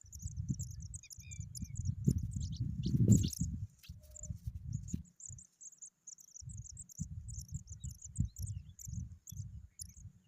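Insects chirping in a fast, continuous high trill, with a few short bird chirps near the start. Under it runs an uneven low rumble that is loudest about three seconds in and drops away for a moment around five seconds.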